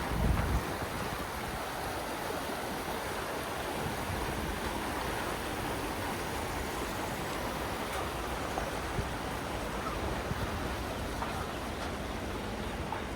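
Steady rush of water from the Iguazu River and its waterfalls, with a brief low thump just at the start.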